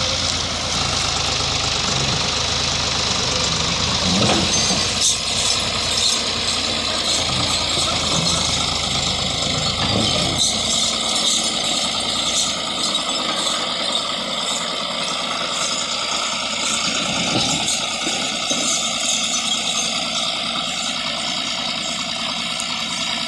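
Diesel tractor engine running steadily, its deep low rumble dropping away about ten seconds in.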